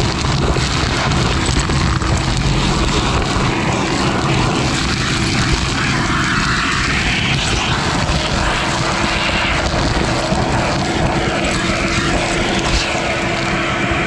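Craftsman 6¼ horsepower shop vac running steadily, its motor giving a constant whine under a rush of air as the hose sucks up debris.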